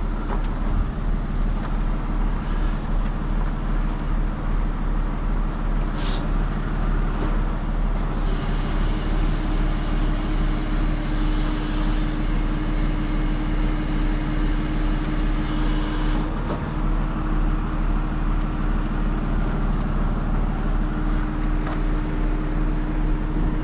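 Heavy diesel truck engine running steadily at a constant speed, with a steady hum that sets in about eight seconds in and carries on alongside it.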